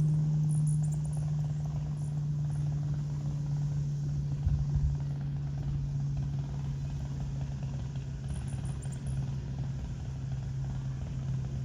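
A steady low hum, like a distant engine, that drops slightly in pitch near the end. Short, very high hummingbird chirps come in clusters at the start and again about eight seconds in.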